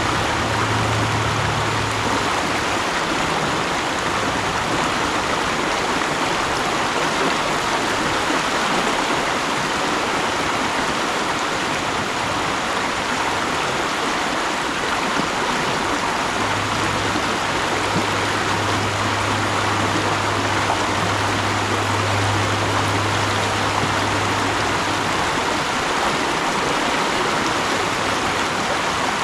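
Mountain stream flowing steadily over rocks, an even rush of water. A low hum sits underneath for several seconds past the middle.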